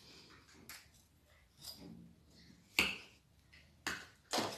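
A handful of separate sharp clicks and knocks of cutlery against dishes, the loudest just under three seconds in.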